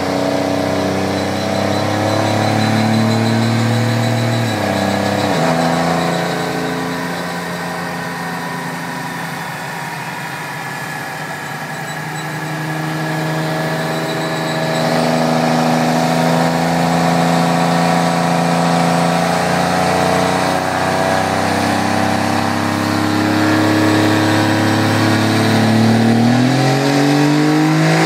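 6.7 Cummins inline-six turbo-diesel running hard on a chassis dyno. Its pitch holds steady, drops sharply about five seconds in as the transmission shifts up, then climbs steadily toward the end as the revs build.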